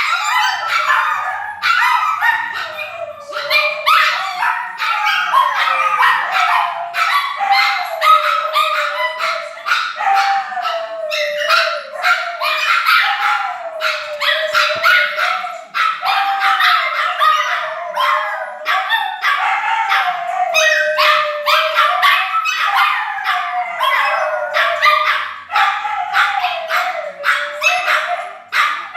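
Several dogs howling and barking together without a break: a continuous wavering howl, rising and falling in pitch, with many sharp barks and yips over it.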